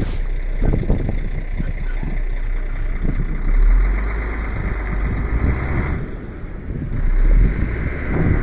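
Heavy truck engine running under load during an attempt to pull a stuck vehicle free, mixed with wind noise on the microphone in a blizzard. The deep rumble swells twice, about four and seven seconds in.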